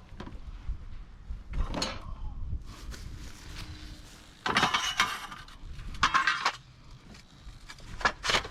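Scrap being rummaged through by hand: short bursts of metal and hard junk clattering and scraping, four or so of them, the longest about halfway through.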